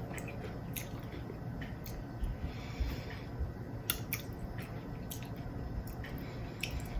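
Chewing: wet mouth sounds and scattered small clicks as a jalapeño pepper with cream cheese and Takis chips is eaten.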